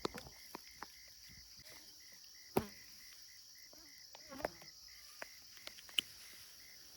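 Faint night insect chorus: a cricket chirping evenly about four times a second over a steady high hum of other insects, with a few scattered clicks and knocks, the loudest about two and a half seconds in.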